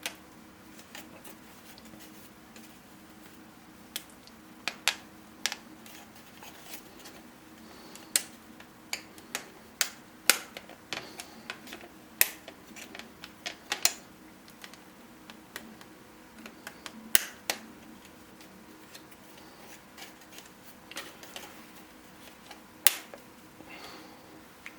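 3D-printed plastic puzzle pieces clicking and snapping as loose pieces are pressed into place in the assembled star: irregular sharp clicks, some in quick pairs, over a faint steady hum.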